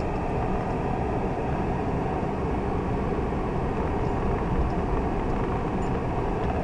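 Steady engine and tyre rumble inside a car's cabin while driving on snow-covered streets.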